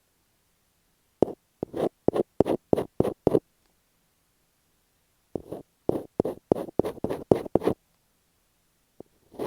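Close-up scratching on masking tape stuck to an earphone microphone, in two quick runs of short strokes, about seven and then about eight, with a pause between them.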